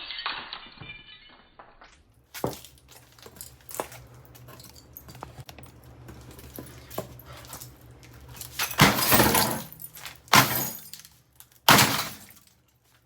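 Glass from a Samsung over-the-range microwave being smashed: first a muffled, slowed-down shattering that fades out, then several sharp knocks and three loud crashes of breaking glass near the end.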